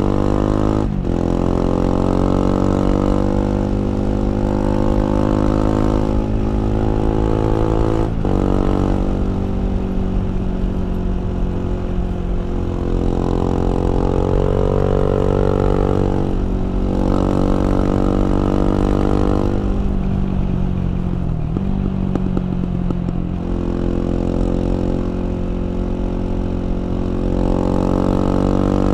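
KTM 690 Duke's single-cylinder LC4 engine riding hard, its revs repeatedly climbing under throttle and dropping sharply at gear changes, with a few deeper dips where the revs fall off before picking up again.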